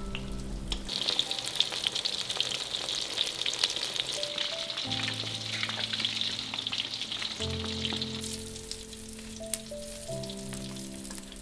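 Oil sizzling and crackling in a wok as wrapped rolls shallow-fry. It comes up about a second in and eases off after about eight seconds.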